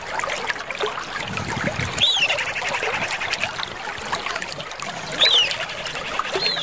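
Common iora (Aegithina tiphia) whistling: a loud note that swoops up and falls back, repeated every few seconds, over a dense mix of chattering bird calls and a trickling-water sound.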